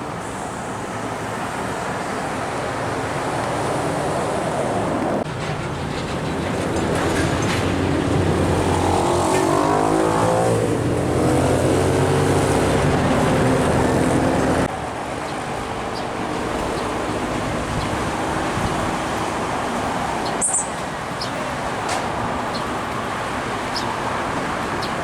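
Road traffic with heavy diesel trucks passing. The loudest, from about 8 to 14 seconds in, is a truck engine going by close, its engine note sweeping as it passes. The sound changes abruptly twice.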